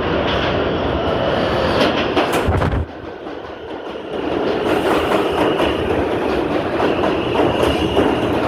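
New York City subway train running on the track, its wheels clicking over rail joints. Sharp clicks come about two seconds in, then the noise drops suddenly for a second or so before rising again.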